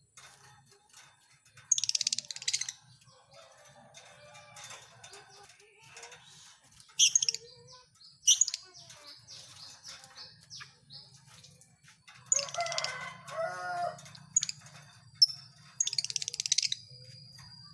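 Lovebirds giving short bursts of shrill chirping and chatter, with a longer, fuller bout of chattering past the middle and a faint low hum underneath.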